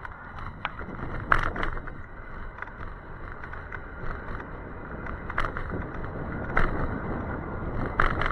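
E-bike ride in the rain: a steady rushing noise of wind and wet road, with a few sharp knocks or rattles spread through it.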